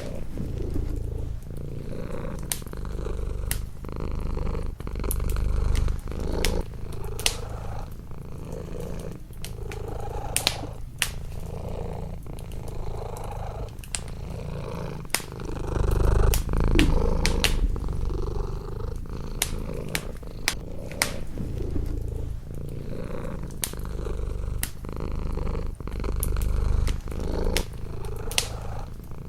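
A domestic cat purring close up, the low rumble swelling and easing with each breath, over a wood fire crackling with frequent sharp pops.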